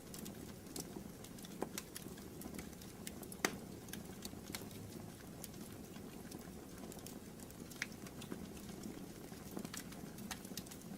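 Wood fire in a fireplace crackling: scattered sharp pops and snaps over a low steady rumble of the flames, the loudest pop about three and a half seconds in.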